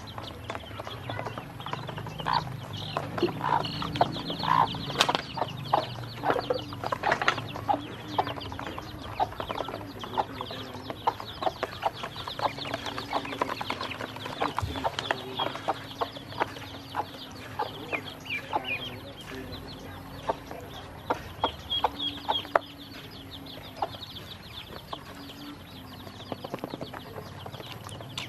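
Black and yellow ducklings peeping and dabbling at feed: a busy, irregular patter of short clicks and high chirps, with a faint steady hum underneath.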